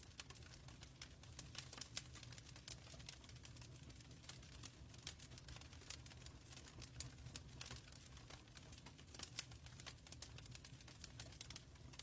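Quiet wood fire crackling in a fireplace: a dense, irregular run of sharp pops and snaps over a steady low rumble.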